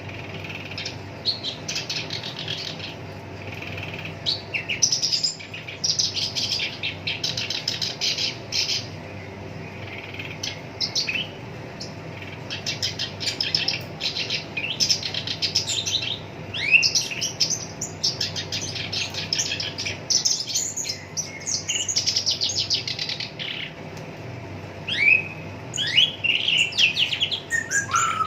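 Black-browed reed warbler (Acrocephalus bistrigiceps) singing a fast, harsh song of rapid rattling trills mixed with short rising and falling whistles, in bursts separated by brief pauses. A faint steady low hum runs underneath.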